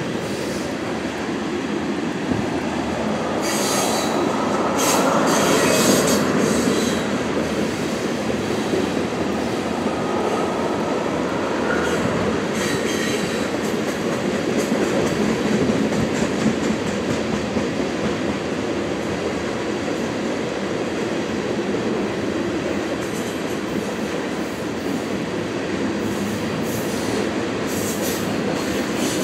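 Railroad tank cars of a freight train rolling past: a steady rumble and clatter of steel wheels on the rails, with a few brief spells of high wheel squeal, the first about four seconds in.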